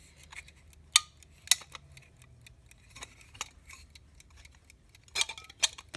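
Irregular sharp metallic clicks and clinks of an alarm clock's bell and small metal parts being handled and pressed into place, with the loudest clicks about a second in and twice near the end.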